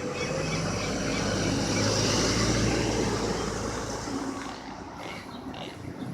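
A motor vehicle passing by on a city street: its engine and tyre noise swell over the first two seconds or so, then fade away again.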